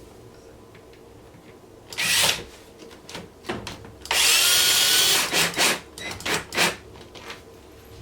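Power drill driving screws: a short burst with the motor whine rising as it spins up, then a run of about a second, then several short spurts.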